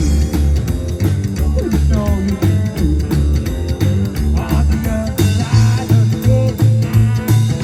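Rock band playing live: electric guitar over a pulsing bass line and drums, in a bluesy rock style.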